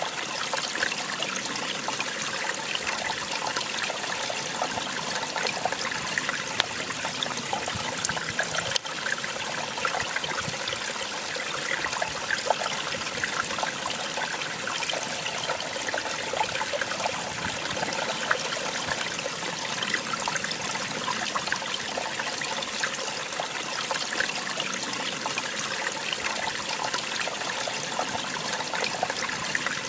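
Small waterfall: water falling and splashing steadily, with fine trickling and spattering throughout. A single brief click about nine seconds in.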